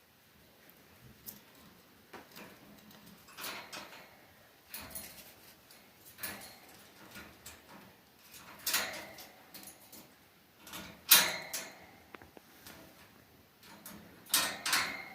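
A pet cockatiel moving about, making irregular scrapes, rustles and clicks. A few of them come with a short high chirp, and the louder ones fall in the second half.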